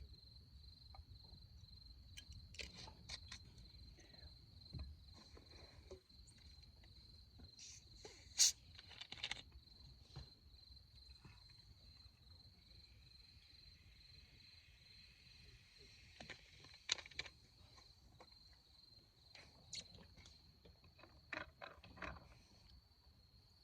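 Insects trilling steadily on one high pitch, with scattered sharp clicks and knocks that are loudest about a third of the way in and again past the middle.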